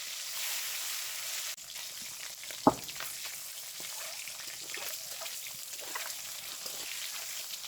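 Egg frying in hot oil, a steady sizzle with small crackles throughout. One sharp knock comes about two and a half seconds in.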